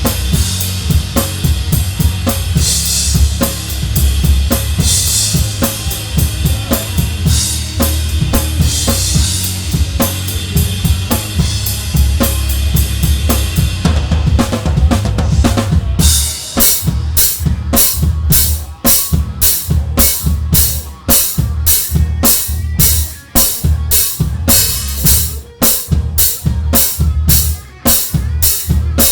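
A live band playing, with the drum kit loud and close: kick drum, snare and cymbals over bass and guitars. About halfway through the cymbal wash drops away and a steady pattern of separate kick and snare hits stands out.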